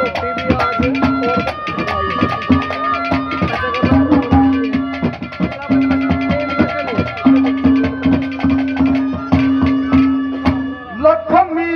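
Instrumental interlude of Haryanvi ragni accompaniment: rapid, rhythmic hand-drum strokes with bending low pitches under long held melody notes.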